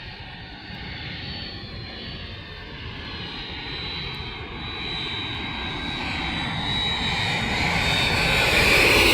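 Airliner on landing approach, its engine noise growing steadily louder as it comes in low overhead, with a high whine running through it.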